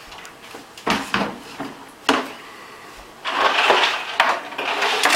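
Lumps of dry ice knocking and clattering into a kitchen sink, a few sharp knocks, then about three seconds in a loud steady rushing hiss starts and keeps going.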